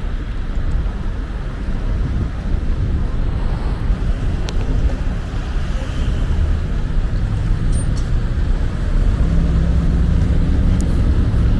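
Steady low rumble of road traffic, growing louder from about nine seconds in as a low engine hum comes up.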